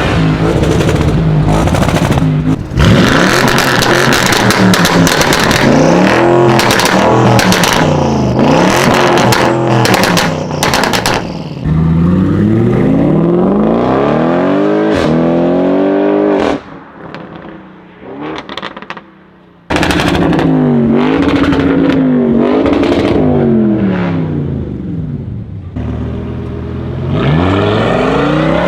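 Audi RS6 engine revving and accelerating in a run of short clips, its pitch sweeping up and falling back again and again, with sharp exhaust crackles and pops between revs, thickest in the first half. It drops off for about three seconds past the middle before loud revving resumes.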